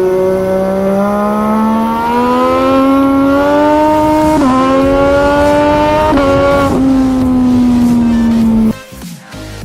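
High-revving sport motorcycle engine accelerating, its note climbing steadily with quick drops in pitch at about four and a half seconds and again around six seconds as it shifts up through the gears. The note then eases down and cuts off suddenly near the end.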